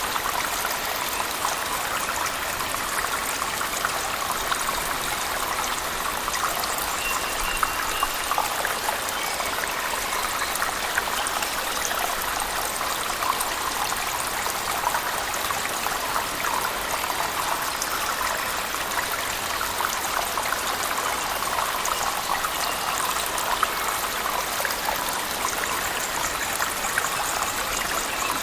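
Falling water from a cave waterfall mixed with heavy rain: a steady, even rushing with fine splashes throughout.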